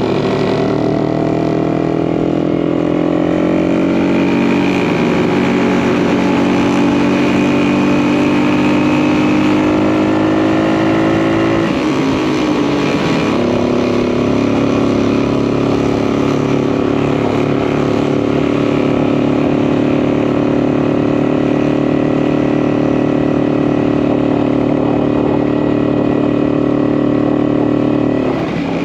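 Single-cylinder two-stroke engine of a 1952 DKW RT 200H motorcycle running under way, its pitch climbing slowly for about twelve seconds, dipping briefly, then holding steady.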